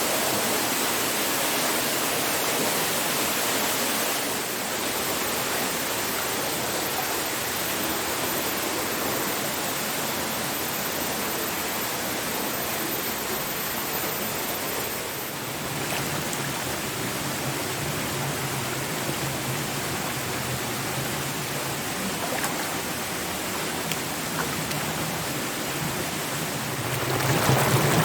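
Waterfall: a steady rush of falling water, its tone shifting slightly twice and growing louder near the end.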